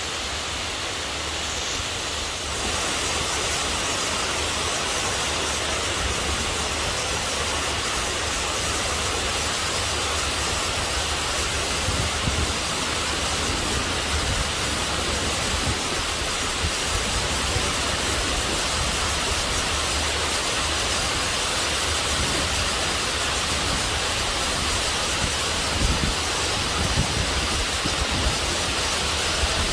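Heavy rain falling steadily as a dense, even hiss, growing a little louder about two seconds in.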